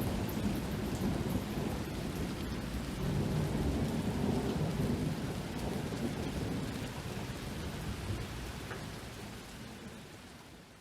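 Steady rain with a long low rumble of thunder, the whole thing fading down over the last few seconds.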